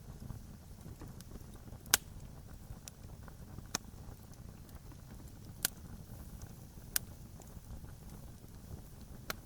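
Campfire crackling: about five sharp, scattered pops over a low, steady rumble, the loudest pop about two seconds in.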